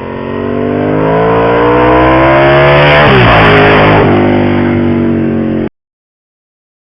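An engine-powered vehicle passes close by at speed. Its engine note rises and swells as it approaches, then drops in pitch as it goes past about three seconds in. The sound cuts off suddenly near the end.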